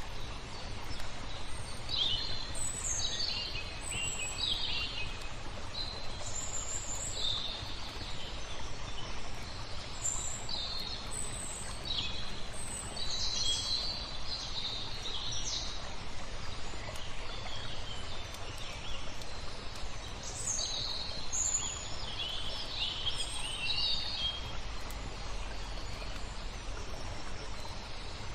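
Small birds chirping in short high calls, many at first and again later with a lull in the middle, over a steady hiss of flowing water.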